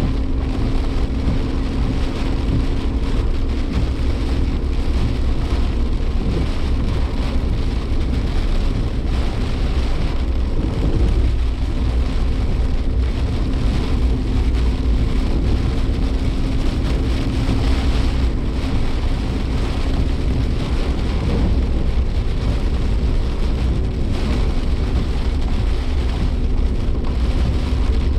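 Suzuki Jimny Sierra heard from inside the cabin while driving in heavy typhoon rain. There is steady engine and road noise, and rain beats on the car throughout.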